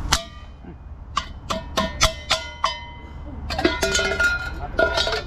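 Hard metal struck over and over, a dozen or so sharp, ringing taps: a few spaced strikes, then a quicker cluster near the end.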